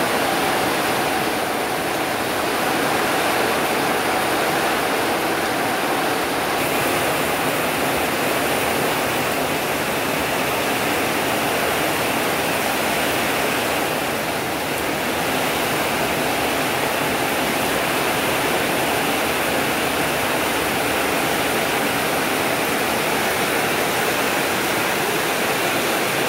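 Heavy rain pouring down in a steady, even downpour: a continuous hiss of rain falling on roofs and trees.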